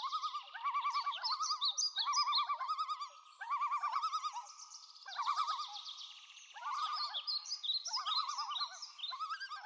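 A flock of flamingos calling: many short, nasal honking calls overlapping in bursts of a second or two, with higher bird calls mixed in.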